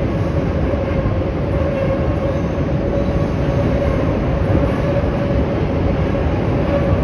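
Chicago metro train running: a steady, loud rumble with a steady humming tone over it.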